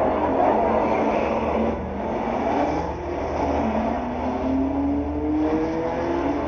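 Several classic car engines accelerating away from a Le Mans-style start, their pitch rising in overlapping climbs as they pull off down the straight.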